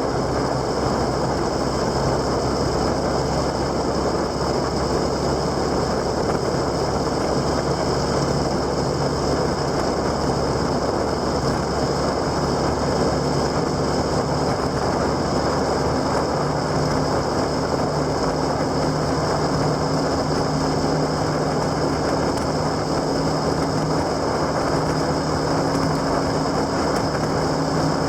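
Motorcycle under way: the engine runs steadily with a low hum, under continuous road and wind rush.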